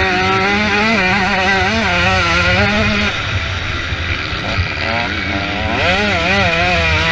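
Motocross motorcycle engines revving hard, their pitch rising and falling continuously as the throttle opens and closes, over a low rumble.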